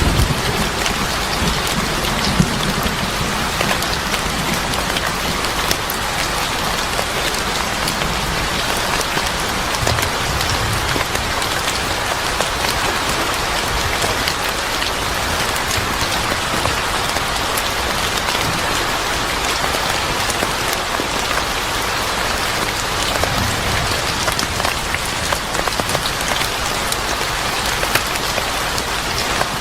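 Steady rain falling, mixed with a crackling wood fire: many small sharp pops scattered through the even hiss of the rain. A low rumble sits under it for the first few seconds.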